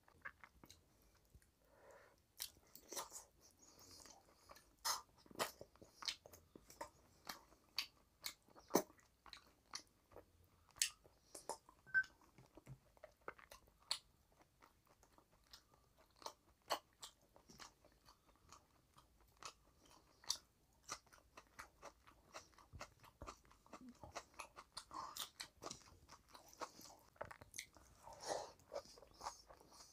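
A person chewing a mouthful of chicken curry and rice eaten by hand: close-up mouth sounds of irregular sharp clicks, smacks and crunches.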